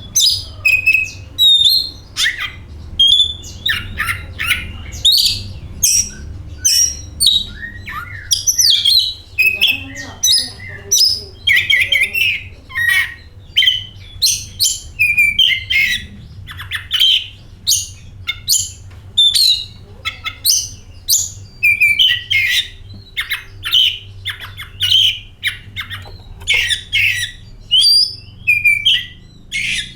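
Oriental magpie-robin (kacer) singing without a pause, a fast, varied run of short whistles and harsher notes, over a faint steady low hum.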